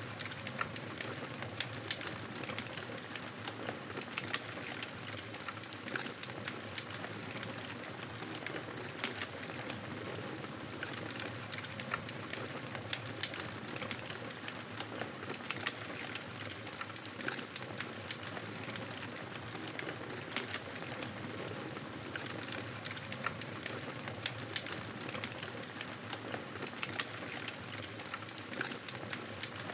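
Fire in a fireplace crackling steadily: a constant soft hiss with many small pops and snaps scattered throughout.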